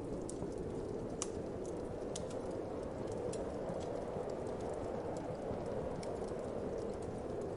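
Wood fire crackling, with irregular sharp pops and snaps, over a steady low whoosh of wind.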